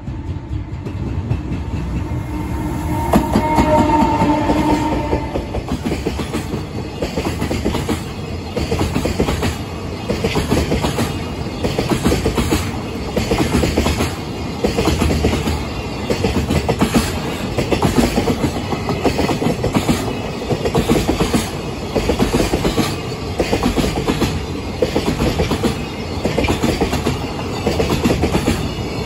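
Freight train passing at speed behind a JR Freight EF210 electric locomotive, followed by a long string of Koki container flat wagons whose wheels clatter over the rail joints in a steady repeating rhythm. A brief steady tone sounds about three seconds in as the locomotive goes by.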